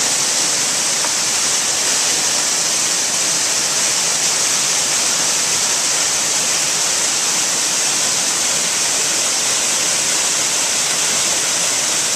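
Waterfall pouring into its pool, a loud, steady rush of falling water heard close to the base of the falls.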